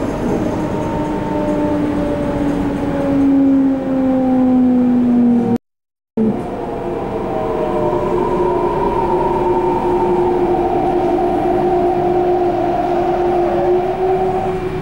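MTR C-Train electric multiple unit heard from on board, its traction motors whining in several slowly falling tones over the running rumble as the train slows for a station stop. The sound cuts out completely for about half a second around six seconds in.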